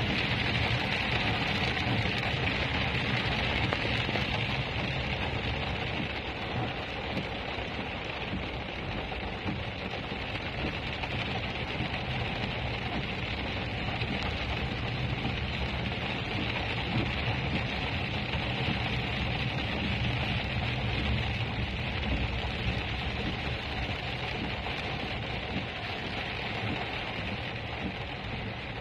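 Heavy rain falling steadily on a car's roof and windshield, heard from inside the car, with a low, even rumble of the car and road underneath.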